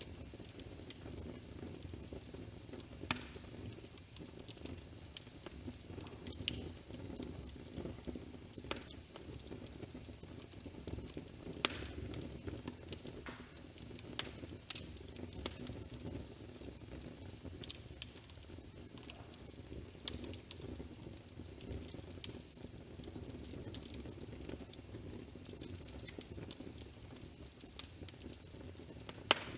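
Fireplace crackling, with irregular sharp pops and snaps over a steady low rumble.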